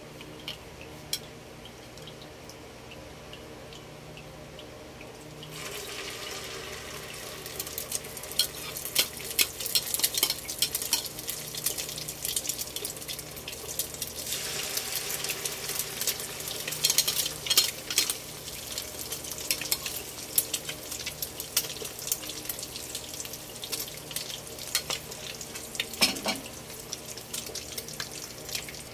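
Tuna omelette batter with moringa leaves frying in hot oil in a nonstick pan, sizzling with many small crackling pops. The sizzle starts about five seconds in and grows louder about fourteen seconds in, as a second ladleful of batter goes into the oil.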